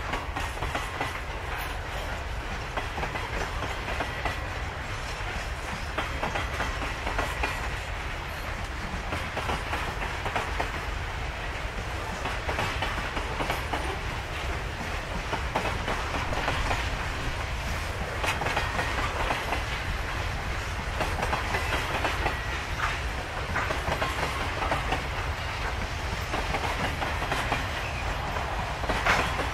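Long freight train of hopper wagons rolling past, with a steady clickety-clack of steel wheels over rail joints.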